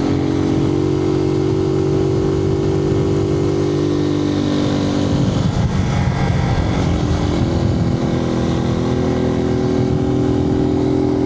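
Suzuki TU250X's single-cylinder engine running steadily under way, heard through a microphone inside the rider's helmet. About halfway through its tone breaks up for a second or two, then settles steady again.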